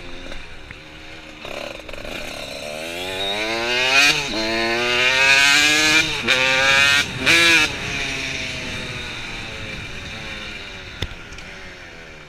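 Motorcycle engine accelerating hard through the gears: the pitch climbs and drops back at each upshift, about three times. It then settles and fades away.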